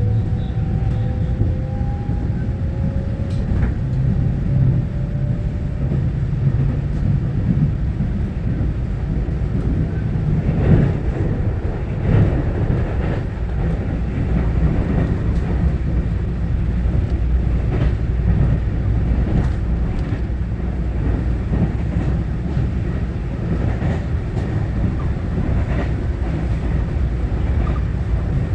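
Interior of a Taiwan Railway EMU900-series electric multiple unit running between stations: a steady low rumble of wheels on rail with scattered clicks. A faint rising whine is heard in the first few seconds.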